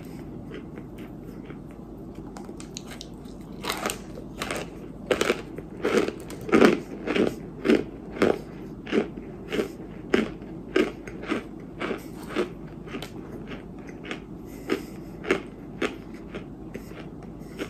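Chunks of white clay ('white dirt') being bitten and chewed close to the microphone. Faint crackling gives way, about four seconds in, to a regular run of crisp crunches, about two a second, loudest a few seconds later and thinning out towards the end.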